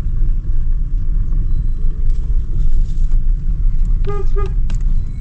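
Vehicle engine running with a steady low rumble, with two short horn toots about four seconds in.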